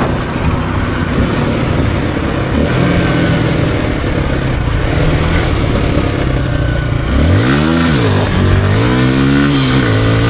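Kawasaki KLX150E dirt bike's small single-cylinder engine pulling away over a steady rush of wind and road noise. About seven and a half seconds in, the revs rise sharply and drop, then climb again in steps as it accelerates through the gears.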